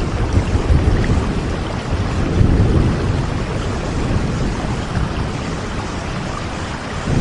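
Steady rain falling, with a low rumble swelling and fading underneath, strongest near the start, a couple of seconds in and at the end.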